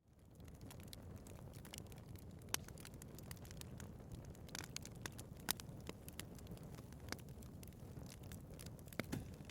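Wood fire burning in a fireplace: a steady low rumble of flames with frequent small crackles and a few sharper pops, the loudest about two and a half and five and a half seconds in. The sound fades in quickly out of silence at the very start.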